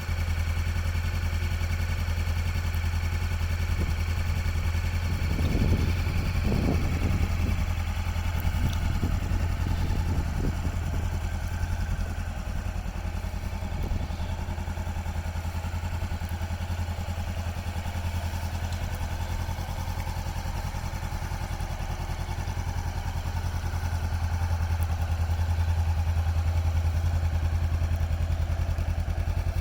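Motorcycle engine idling steadily, with a stretch of uneven, louder sound about five to eleven seconds in.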